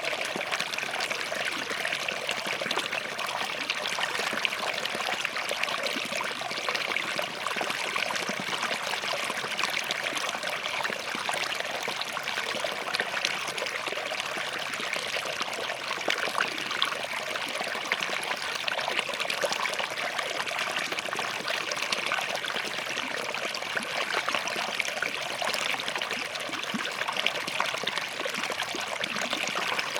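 Small forest stream running over and between rocks, a steady babbling and trickling of water.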